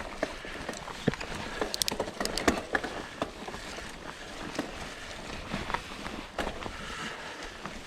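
Mountain bike moving along a dirt trail: a steady run of crackles, clicks and rattles from the tyres and bike, with a quick cluster of sharper clicks about two seconds in.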